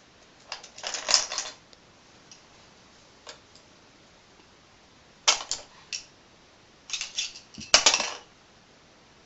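Hard plastic pieces of a LeapFrog Fridge Farm magnetic animal set clacking and rattling in short clusters of sharp clicks, the loudest near the end.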